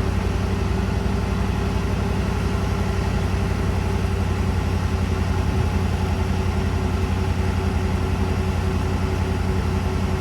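Large forklift's engine running steadily with a low, even drone.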